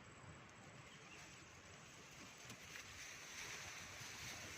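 Near silence: a faint, steady outdoor hiss that grows slightly louder in the second half.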